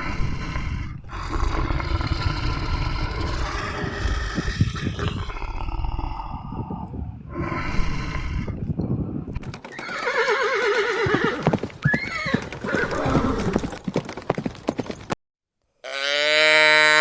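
A horse neighing and whinnying several times over a background of knocks, cutting off abruptly. After a brief silence, a cow starts a long moo near the end.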